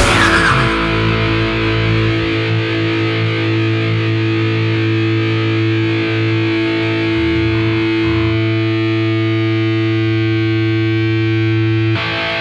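A band's last hit at the end of a heavy rock song, then a distorted electric guitar chord held and ringing out steadily.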